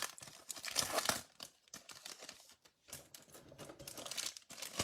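A trading-card pack's wrapper crinkling and tearing as it is opened by hand, in irregular crackles and small clicks.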